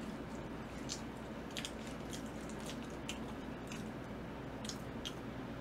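Eating sounds: wet, squishy chewing of sauce-coated yangnyeom fried chicken, with scattered short faint clicks about once or twice a second.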